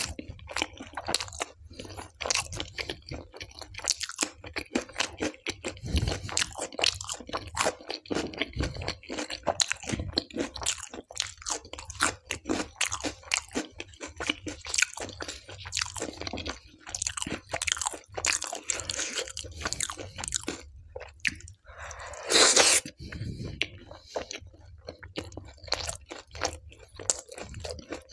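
Close-miked chewing and crunching of mouthfuls of tandoori naan with dal: a rapid, uneven run of small clicks. There is one brief, louder burst of noise about three-quarters of the way through.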